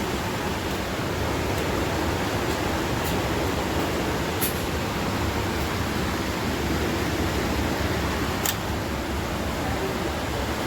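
Steady rushing air noise, like ventilation, with a few small sharp clicks, the clearest about four and eight and a half seconds in, as .50 AE cartridges are pressed one by one into a Desert Eagle magazine.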